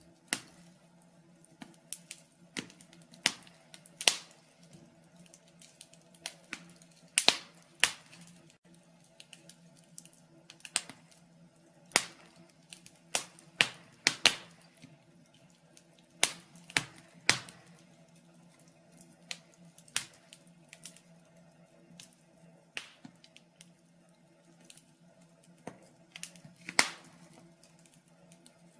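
Wood fire crackling in a fireplace: irregular sharp pops and snaps at uneven intervals, over a faint steady hum.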